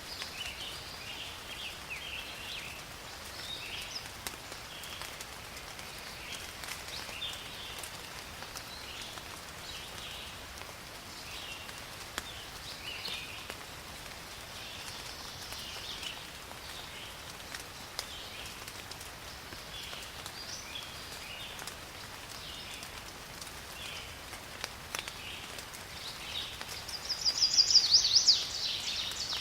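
Steady rain falling in a forest, with drops pattering and short high chirps from small animals repeating throughout. About 27 seconds in, a louder rapid buzzing trill rises for about a second and a half.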